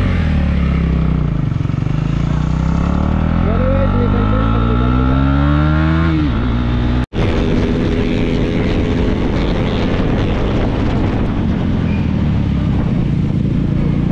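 KTM Duke 390's single-cylinder engine accelerating hard, its pitch rising steadily for about six seconds. After a sudden brief cutout about halfway, the bike runs on at speed under a steady rush of wind.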